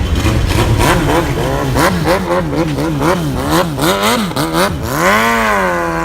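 Car engine free-revved in quick throttle blips, about two a second, then one longer rev that rises and falls back near the end.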